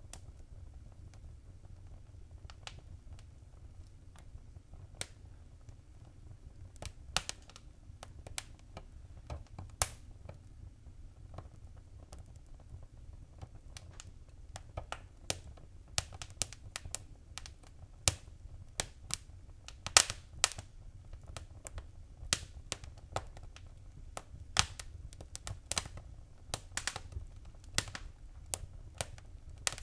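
Wood fire crackling: irregular sharp pops and snaps over a low steady rumble. The pops come more often in the second half.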